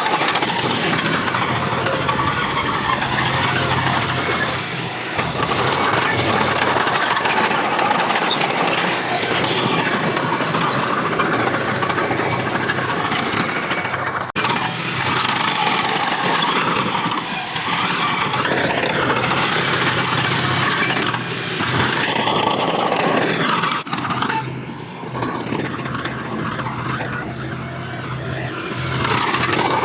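Diesel earthmoving machinery working, its engine running steadily with wavering metallic squeals over it. The sound breaks off abruptly twice and resumes.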